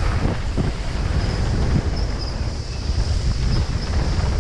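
Wind rushing over an action camera's microphone during a mountain-bike descent, a dense, steady rumble.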